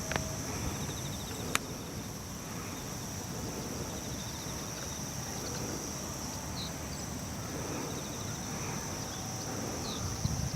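A chorus of insects chirring steadily at a high pitch over a low rumbling background, with a single sharp click about a second and a half in.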